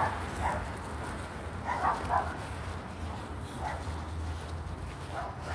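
A dog barking: short, separate barks, one about half a second in, a quick pair near two seconds, then single barks later on.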